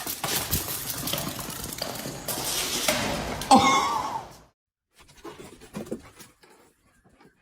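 A dog panting in a noisy, breathy rush, with one short pitched sound about three and a half seconds in. After a brief break come faint scattered small knocks.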